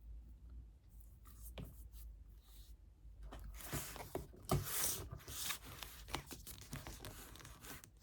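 Packaging being torn and rustled by hand as a book delivery parcel is opened, with scratchy tearing strokes and small clicks that are busiest in the middle.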